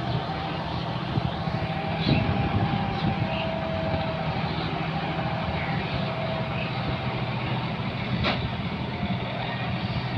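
John Deere 5210 tractor's diesel engine running steadily while working with a rotavator, with a single sharp click about eight seconds in.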